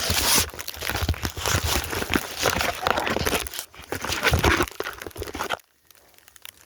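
Snow crunching in quick, irregular crunches, as of snow being handled or walked through. It stops abruptly near the end.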